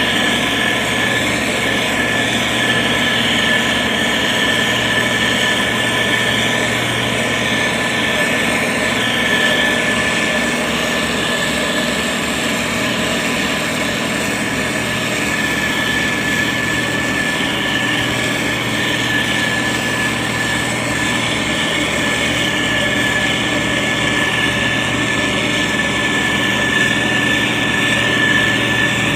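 Diesel engine of a SANY STG190C-8S motor grader running steadily, with a steady high whine over it.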